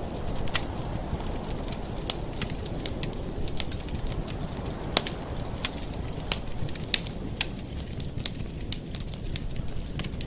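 Campfire burning: a steady low rush of flames with sharp wood crackles and pops at irregular intervals, one louder pop about halfway through.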